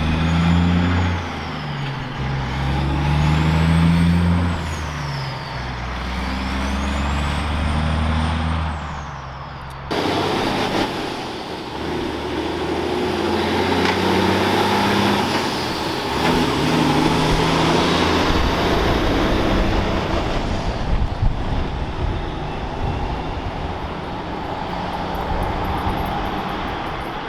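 Heavy diesel trucks driving by: an engine pulling through the gears, its pitch stepping up and dropping, with a high whistle that rises and falls three times; about ten seconds in the sound cuts suddenly to another truck's engine running with road noise.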